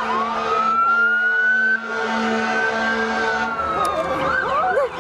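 Fire truck siren: a slow wail rising at the start, held, then falling, switching back to a fast yelp near the end, with more than one siren sweeping over each other. A steady low drone runs beneath.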